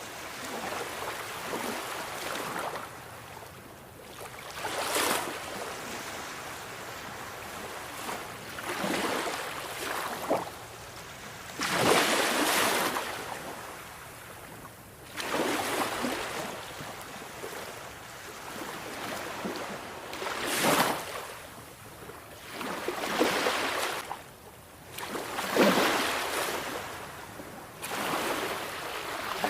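Sea waves breaking on the shore, a hissing wash of surf that swells and falls back every few seconds.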